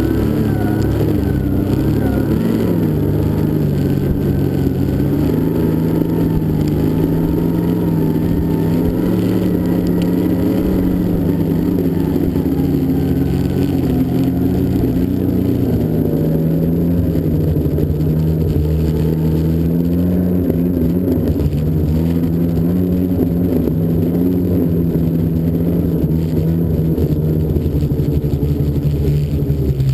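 Snowmobile engine running under way, its pitch rising and falling slowly with the throttle.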